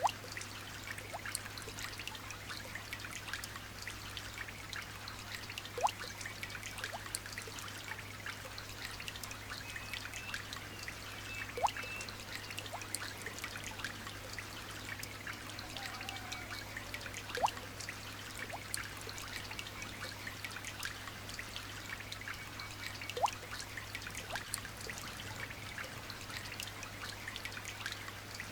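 Light rain pattering with a steady trickle of water, and a louder drip plinking into water about every six seconds, each plink rising in pitch. A steady low hum lies underneath, with a few faint bird chirps.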